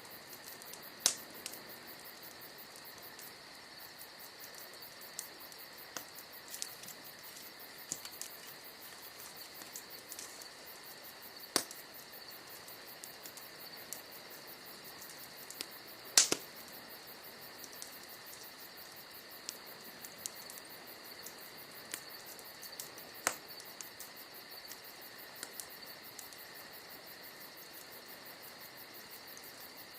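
Bonfire crackling, with sharp pops every second or few, the loudest about halfway through. Crickets chirp steadily behind it.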